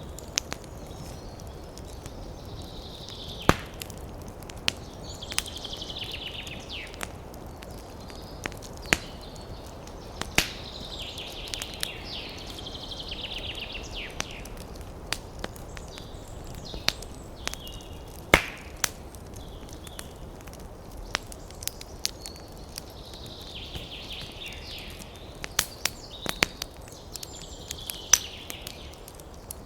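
Wood fire in a fireplace crackling, with irregular sharp pops, a few of them much louder, and spells of soft hissing from the burning logs.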